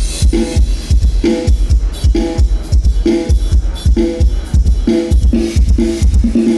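Dance remix played loud through a PA system with 15-inch order-6 bandpass subwoofer cabinets: a fast, steady kick-drum beat dominates, with short repeated chord stabs above it.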